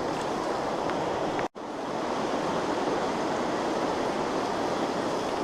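Steady rushing of a small stream's flowing water. It cuts out for an instant about one and a half seconds in, then carries on unchanged.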